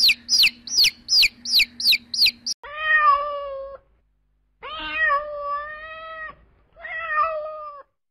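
Chicks peeping in a fast run of high, sharply falling chirps, about three a second. After about two and a half seconds, a domestic cat meows three times; the middle meow is the longest.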